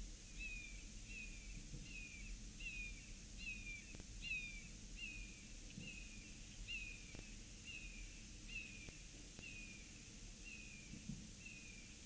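Bald eagle calling: a long, even series of short, high, descending notes, about one a second.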